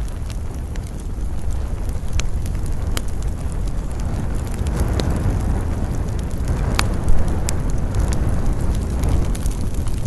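Wood campfire crackling with scattered sharp pops, under a steady low rumble of wind that swells into a gust mid-way, with one louder pop about seven seconds in.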